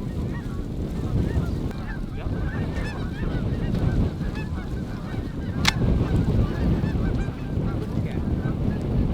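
Geese honking and clucking over and over, with wind rumbling on the microphone. One sharp click a little over halfway through.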